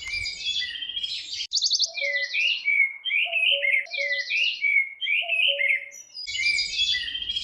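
Songbird singing a fast, varied run of chirps and trilled phrases that repeat with short gaps. A lower, softer pair of notes recurs several times beneath it.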